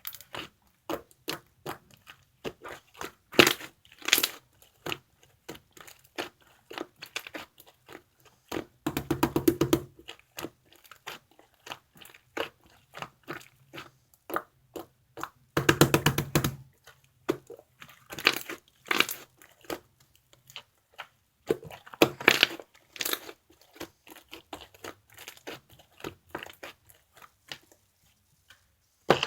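Opaque white slime being squished and pressed by hand, giving irregular sticky clicks and crunchy pops, with two runs of rapid crackling pops about nine and sixteen seconds in.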